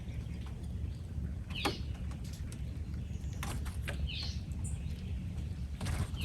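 A bird calling: a short, high note falling in pitch, repeated about every two seconds, over a steady low rumble with a few faint clicks.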